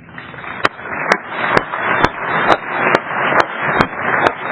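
Audience applauding, a steady noise of clapping, with sharp clicks about twice a second.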